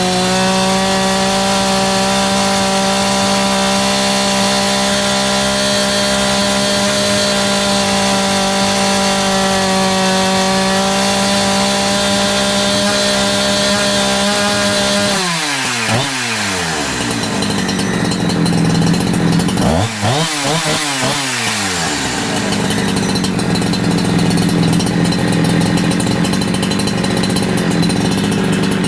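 Holzfforma G372XP chainsaw's two-stroke engine running steadily at high revs on a newly fitted carburettor while it is tuned. About halfway through, the revs drop and climb back in quick sweeps twice, then it settles again into a steady high run.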